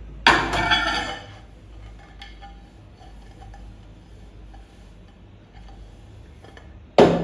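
A sharp clink of hard kitchenware with a short ring about a third of a second in, then low room noise with faint light ticks, and a sudden knock near the end.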